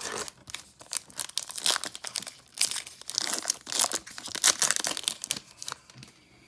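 Foil wrapper of a baseball card pack being torn open and crinkled, an irregular run of crackling and rustling that dies down near the end.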